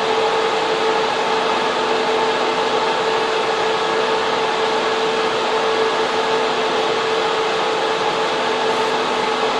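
Data center server room: the loud, steady rush of server fans and air cooling, with a constant hum tone running through it.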